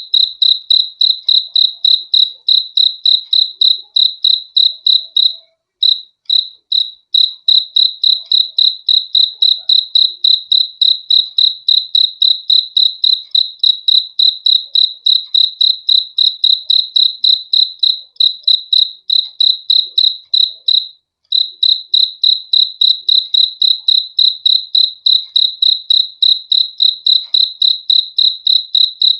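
A cricket chirping loudly and close, in a steady, even train of about three short, high chirps a second. It pauses briefly twice, about six seconds in and about twenty-one seconds in.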